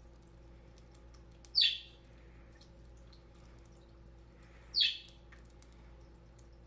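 Budgerigar giving two short, loud chirps about three seconds apart, each sweeping down in pitch.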